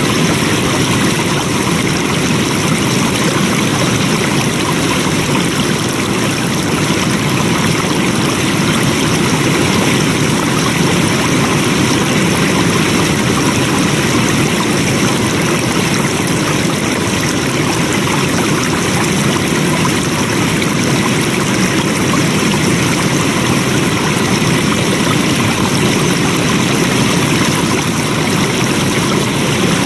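Flowing stream water: a steady, unbroken rush that keeps the same level throughout.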